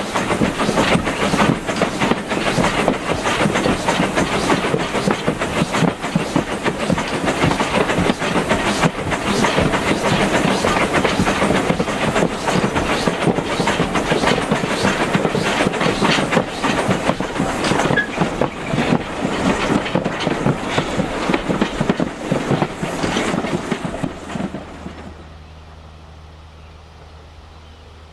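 Railway carriage running along the line, its wheels knocking over the rail joints amid a dense rolling rumble. About twenty-five seconds in the train noise falls away to a quiet low steady hum.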